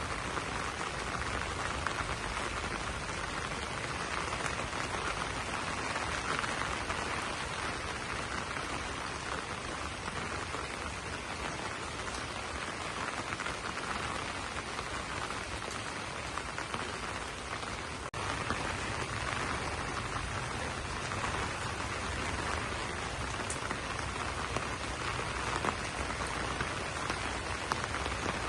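Steady rain falling on broad banana leaves, an even patter with a slight lift in level about two-thirds through.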